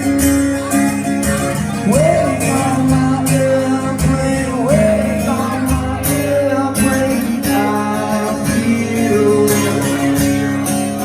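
A song performed on acoustic guitar, strummed steadily, with a singer's voice coming in with a few sliding phrases.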